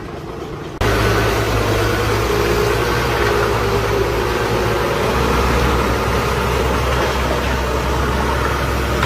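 A large engine running steadily and loudly, cutting in abruptly about a second in, with a steady low hum whose pitch drops a little about halfway through.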